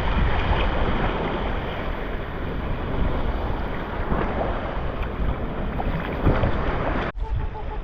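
Heavy wind buffeting the microphone over the rush of sea water, out on open water. About seven seconds in it cuts off abruptly to a quieter wash of water.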